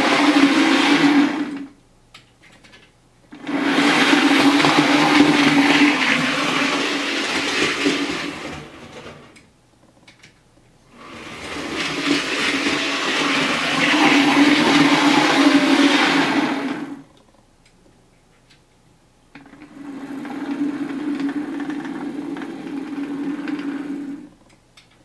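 Bachmann Class 47 OO gauge model diesel locomotive running on the layout track, its motor humming steadily under the clatter of wheels on rail. It comes in four spells of about five seconds each, swelling and fading, with short quiet gaps between.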